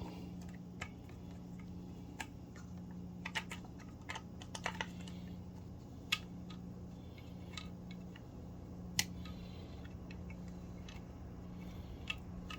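Irregular small clicks and taps of septic aerator pump parts being worked by hand during reassembly. The two sharpest clicks come about six and nine seconds in.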